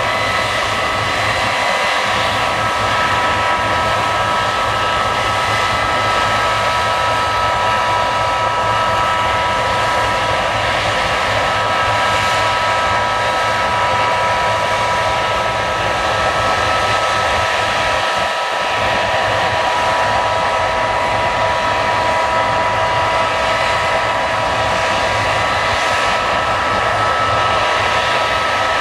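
Case combine harvester running steadily while harvesting barley: a loud, even rushing noise with several high, steady whining tones from its machinery, unchanging throughout.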